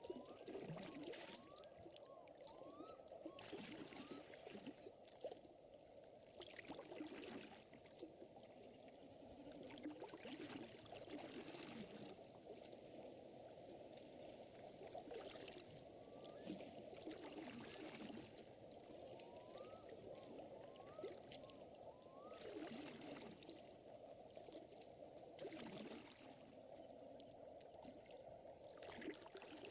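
Faint lake water lapping and trickling, swelling softly every few seconds, with a few runs of four or five short rising chirps over it.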